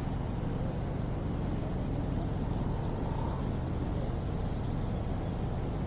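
Steady low rumble of city traffic, with a few faint, brief higher sounds over it, one about three seconds in and another at about four and a half seconds.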